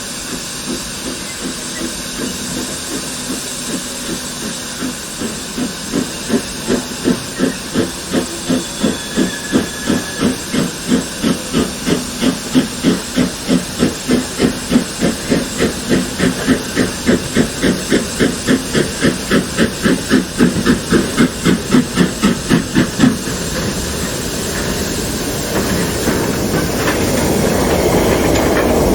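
Steam locomotive blowing off a steady hiss of steam, then working with exhaust chuffs about twice a second that build in strength. The chuffs stop about three-quarters of the way through as steam is shut off, and the rumble of the train's wheels on the rails rises near the end.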